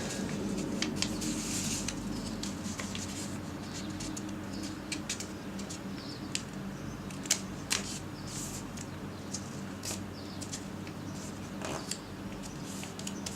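Square sheet of origami paper being folded and creased by hand: irregular crisp rustles and small taps of paper.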